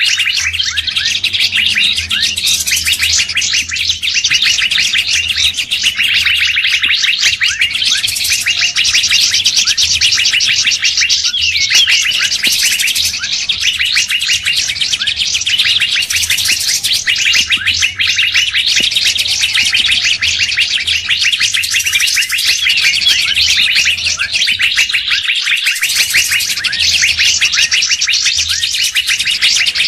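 Dense, continuous chirping and chattering of many songbirds layered together, a bird-luring call recording with no let-up in the notes.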